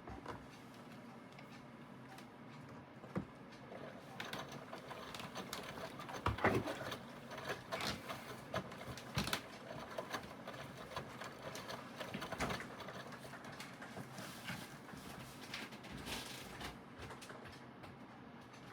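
Aidoo 1 kg mini washing machine running its rinse: the direct-drive motor turns the wash steadily, with irregular knocks and clicks throughout.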